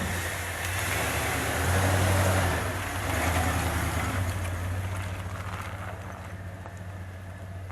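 A motor vehicle's engine running with road noise, growing louder about two to three seconds in, then fading away.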